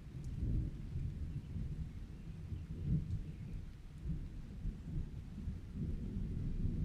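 Low, continuous rumble of rolling thunder with faint rain, swelling about three seconds in and again near the end.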